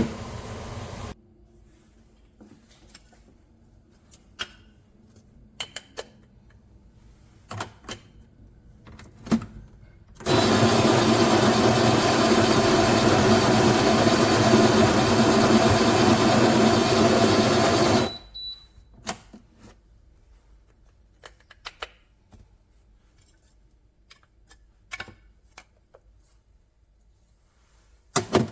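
A MIROX espresso machine with built-in grinder runs loudly for about eight seconds and stops abruptly, with light clicks and knocks of handling before and after.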